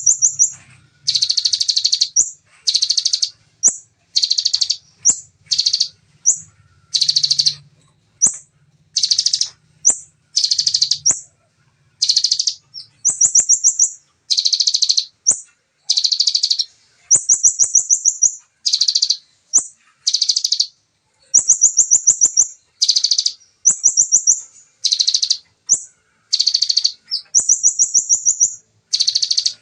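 Bar-winged prinia (ciblek) singing its rapid-fire 'shooting' song: a long run of short, loud, high-pitched phrases, each about half a second to a second, many of them fast, evenly spaced trills, with brief gaps between. A faint low hum lies under the first ten seconds or so.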